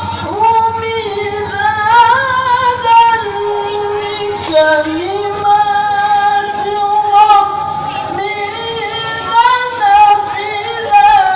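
A child qari chanting Quran recitation (tilawah) in long, ornamented melodic phrases, holding and bending notes between short breaths.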